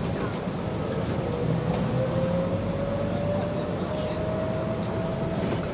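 Bus engine and drivetrain heard from inside the bus under way: a steady low rumble with a whine that rises slowly in pitch over several seconds as the bus gathers speed.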